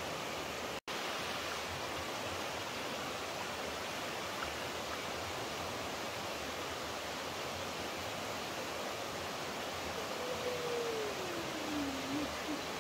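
Steady rushing of flowing water, an even hiss with no rhythm. It drops out completely for an instant just under a second in, and near the end a faint tone glides downward over about two seconds.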